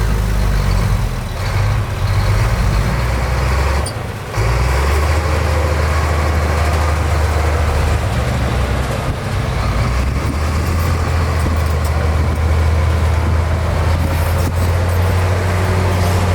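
Heavy diesel earthmoving machinery running under load on a dirt site, a deep steady engine drone with clattering noise over it; the engine note drops briefly and shifts pitch about four seconds in.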